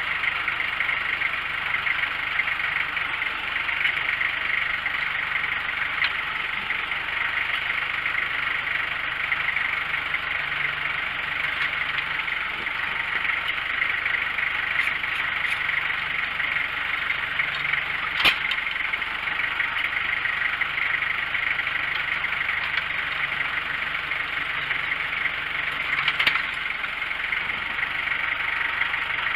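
An engine idling steadily, most likely the power unit of an antique circle sawmill left running between cuts. A few sharp clicks or knocks sound over it, the clearest about 18 seconds in.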